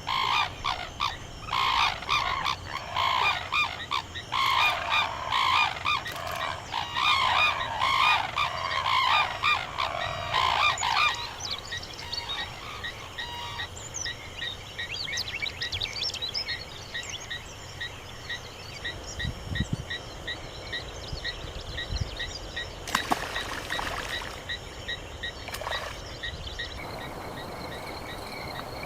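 Loud honking bird calls repeated over the first ten seconds or so. They give way to frogs croaking in a steady chorus, a few short pulses a second.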